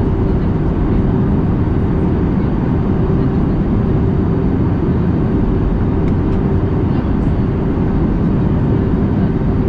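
Airbus A320neo cabin noise in flight: a steady rush of air and engine noise with a constant low hum.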